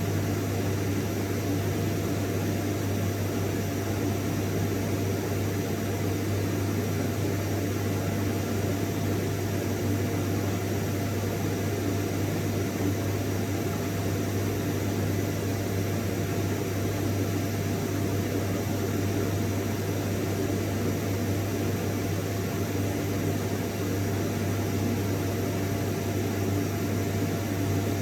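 Vacuum cleaner running steadily: an even rush of air over a constant low motor hum, with no change in pitch or level.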